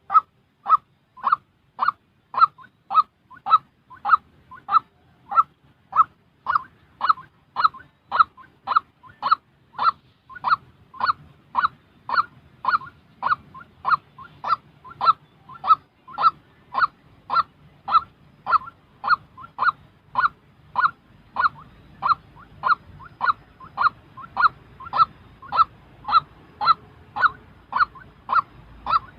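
White-breasted waterhen calling: short, honking calls repeated evenly, nearly two a second, with no break.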